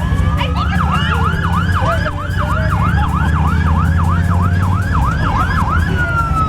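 Pre-demolition warning siren sounding in a fast yelp, about three rising-and-falling sweeps a second, then dropping to a single slowly falling tone near the end. A steady low rumble runs underneath.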